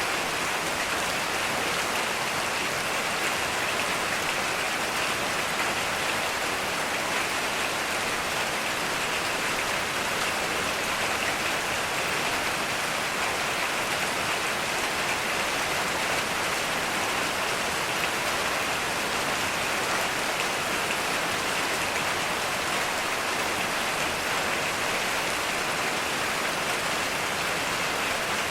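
Heavy rain falling steadily, a dense even hiss with no thunder in this stretch.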